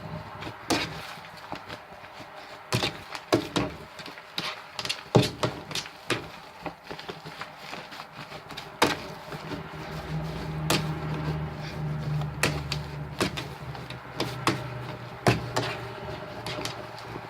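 Irregular clicks and knocks from hands handling a slime container and its contents, with a low hum about ten seconds in.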